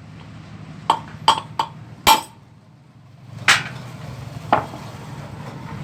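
Six irregular metal-on-metal hammer strikes, each with a short ringing tone, over a low steady hum.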